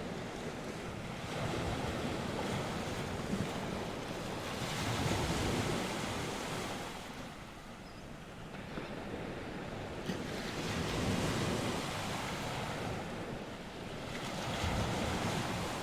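North Sea waves washing ashore in slow surges, three swells rising and falling over the span. Wind blows through, with some wind buffeting on the microphone.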